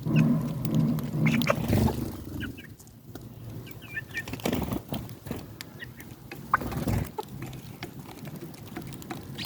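Domestic hens clucking low during the first two seconds, with short clicks of birds pecking at feed and a few high sparrow chirps around the middle.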